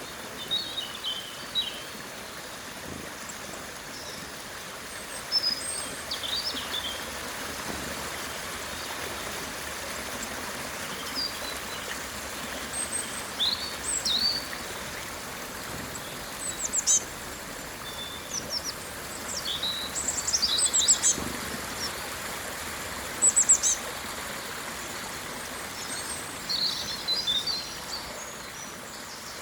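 Small birds chirping and trilling in short, scattered calls, with the busiest bursts in the second half, over a steady rushing background noise.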